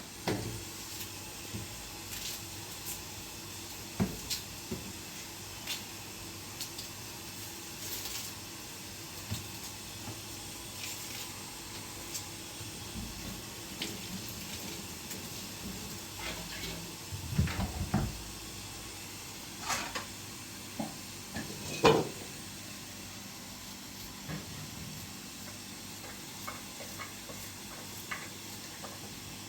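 Scattered light knocks and clatter of objects being handled over a steady background hiss; a cluster of knocks comes a little past the middle and the loudest knock about 22 seconds in.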